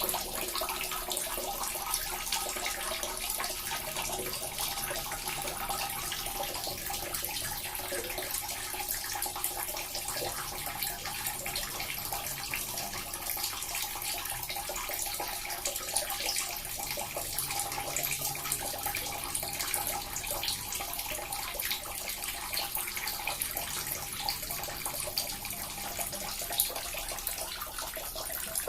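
Small water fountain running steadily: a continuous splash and trickle of falling water.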